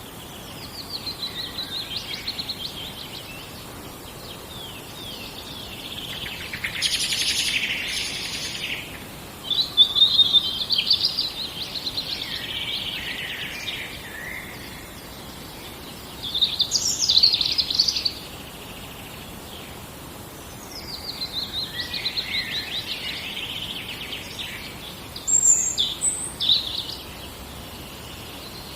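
Songbirds singing in a forest: a run of separate song phrases, each two to three seconds long with short pauses between, some of them fast trills that slide downward, over a faint steady hiss.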